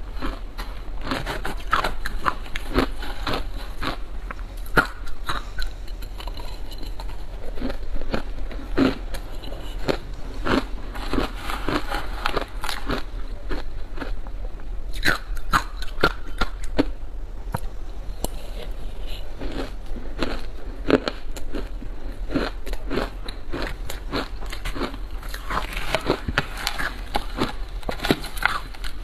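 Close-miked chewing and crunching of matcha shaved ice: a dense string of crisp, crackling crunches as mouthfuls of ice are bitten and chewed, with a few brief pauses.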